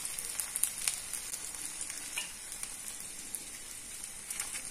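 Stuffed okra faintly sizzling in the oil left in a hot kadai after the flame is off, with a few light clicks and scrapes of a fork and slotted spoon lifting the pieces out.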